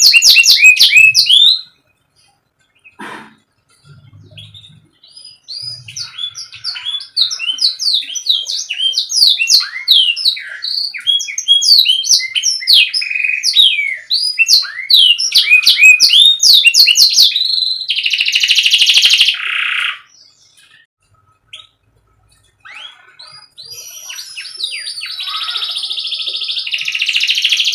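Domestic canary singing: fast runs of high chirps and rolling trills, broken by a pause of a few seconds near the start and another shorter one in the second half.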